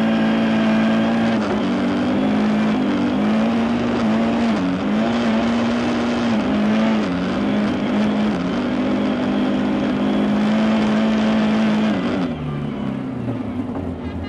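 Rally-prepared Lada 21074's four-cylinder engine held at high revs, heard from inside the cabin, its note dipping briefly a few times before falling away near the end as the car slows.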